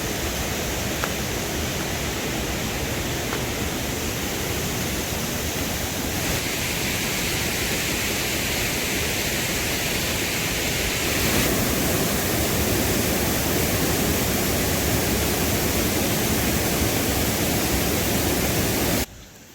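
Steady rushing water noise. Its character shifts abruptly about 6 and 11 seconds in, and it cuts off suddenly just before the end.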